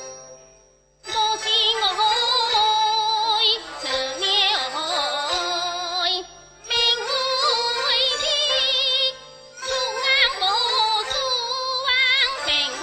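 Teochew opera singing with vibrato over instrumental accompaniment, in phrases broken by short pauses. It begins after a near-silent moment about a second in.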